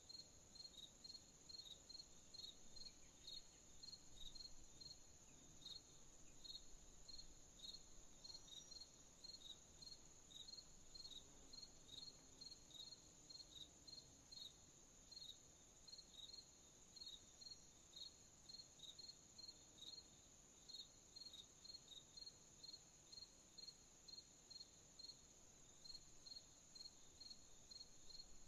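Crickets chirping at night: short, high chirps repeating a few times a second, over a steady, higher-pitched insect trill and a faint hiss, all quiet.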